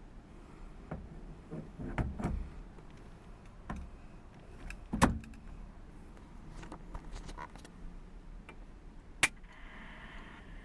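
With the engine off, a series of clicks, knocks and thumps from someone handling the car, the loudest about 5 s and 9 s in. A faint steady hum begins near the end.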